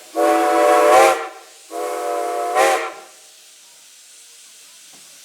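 Steam locomotive whistle blown twice, each blast about a second long and sounding as a chord of several steady tones, the second blast quieter. A faint steady hiss follows.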